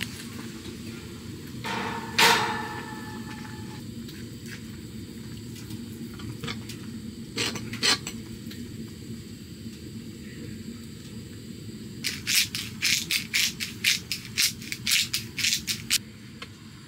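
Metal cooking utensils clinking and tapping against a pan of cooking short ribs: a ringing clink about two seconds in, two knocks in the middle, and a quick run of clicks, about four a second, over the last few seconds.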